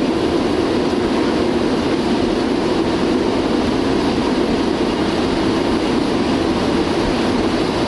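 Steady noise inside Concorde's cockpit during the takeoff sequence: a constant rumble of engine and airflow noise, even in level, with no distinct events.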